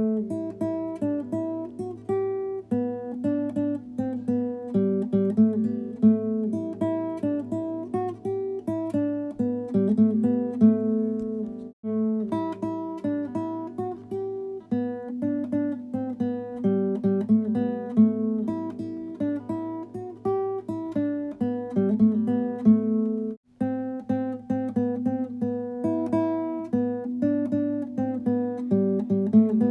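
Solo acoustic guitar playing a tune in plucked notes over a low bass. The music breaks off for a split second twice, about 12 and 23 seconds in.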